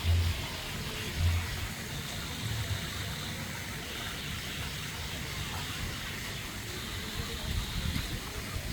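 Steady rushing noise like running water, with two low thumps at the very start and about a second in.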